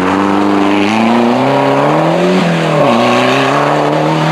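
Rally car engine under hard acceleration, its pitch climbing steadily. About two and a half seconds in, the note falls away sharply, then climbs again.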